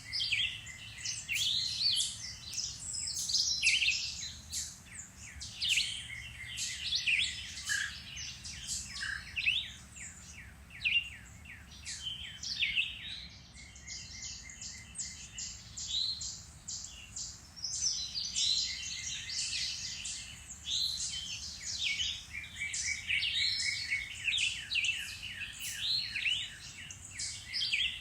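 A chorus of several woodland songbirds singing and chirping: a dense, unbroken stream of short rising and falling notes and quick trills from overlapping birds.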